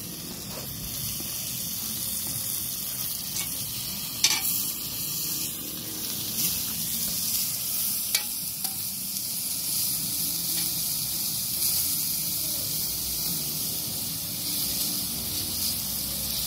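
Meat sizzling steadily on a hot cast-iron griddle over a campfire, with two sharp clicks about four and eight seconds in.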